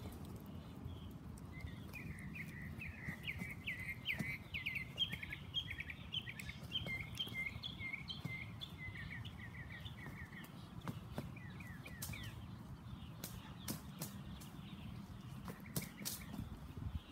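A bird chirping a long, rapid series of short chirps for about ten seconds, then stopping, over a steady low outdoor rumble. A few sharp clicks come near the end.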